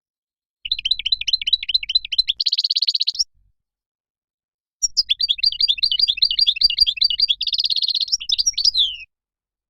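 European goldfinch singing: two bursts of quick, high twittering song, each with a rapid buzzy trill near its end, separated by silent gaps.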